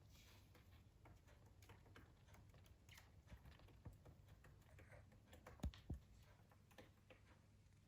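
Near silence: quiet room tone with faint scattered ticks and taps, and two soft knocks in quick succession about two-thirds of the way through.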